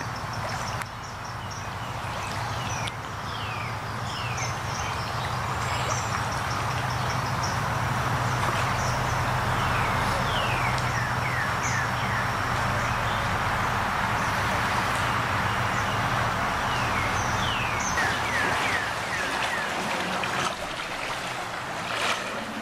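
Bird chirps, short notes sliding downward, in small runs of two to four. They sit over a steady rushing noise and a low engine-like hum.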